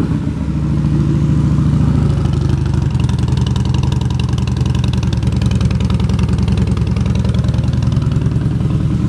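2015 Harley-Davidson Dyna Wide Glide's Twin Cam V-twin idling through aftermarket Vance & Hines exhaust pipes, just after starting. It runs at a slightly faster idle for about the first two seconds, then settles to a lower, steady idle.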